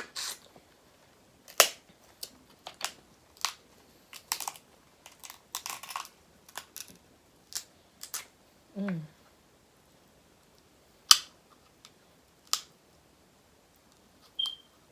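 Crab shell cracking and snapping: a dozen or so sharp cracks at irregular intervals, the loudest about eleven seconds in, with a short falling hum of the voice about nine seconds in.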